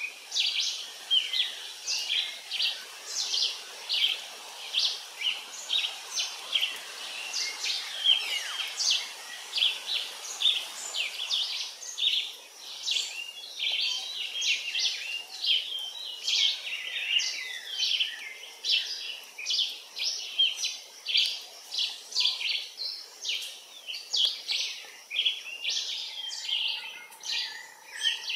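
A dense chorus of birds chirping, many short high calls a second overlapping one another. A faint steady tone joins in near the end.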